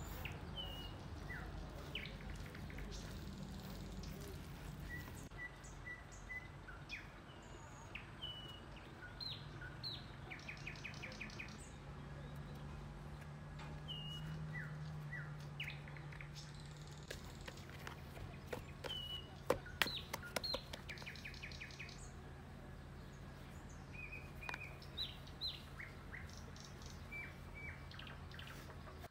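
Small birds chirping and calling again and again, with short high notes and a few buzzy trills, over a steady low hum; a few sharp clicks about two-thirds of the way through.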